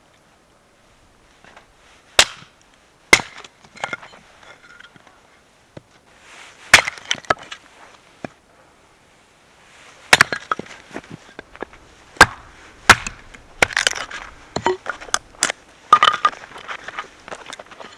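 Firewood being split and broken: sharp cracks of wood at irregular intervals, with splintering and crackling between them, coming closer together in the second half.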